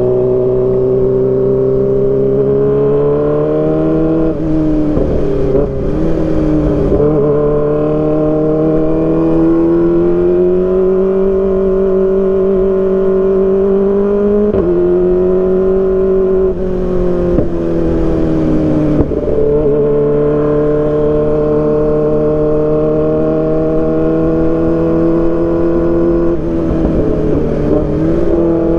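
Kawasaki ZX25R's 250 cc inline-four engine through an Arrow Pro Race exhaust, running at high revs under way. The pitch holds or drifts slowly up, then dips and steps several times, around 4, 6, 15, 17, 19 and 27 seconds in, as the rider works the throttle and gears.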